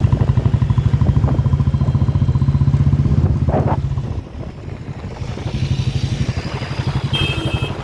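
Motorcycle engine running under way, a fast steady pulsing that eases off about four seconds in as the throttle drops, then picks up again. A short high beep sounds near the end.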